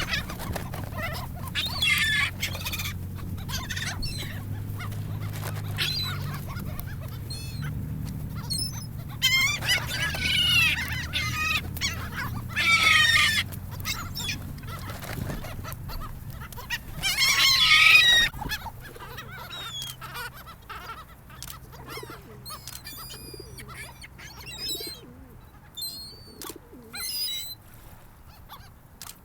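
Gulls calling, with several loud bouts of calls and many shorter calls in between, over a low steady hum.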